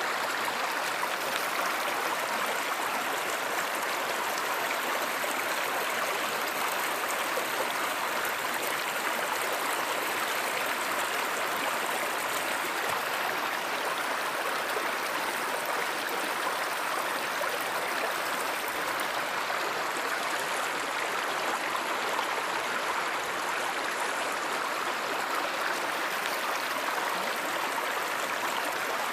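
Flowing stream water, a steady, even rush with no breaks.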